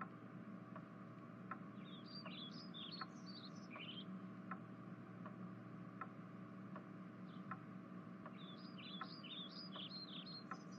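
Faint background ambience: small birds chirping in two short runs of quick high notes, about two seconds in and again near the end. Under them are a steady low hum and soft ticks about every three-quarters of a second.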